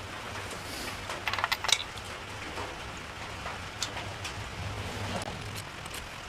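Steady rain with a short run of sharp metallic clicks and clinks about one and a half seconds in, from tools working at the spark plugs.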